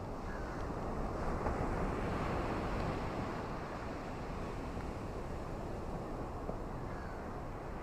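Ocean surf washing onto a beach: a steady rush that swells about a second in and eases off again after about three seconds.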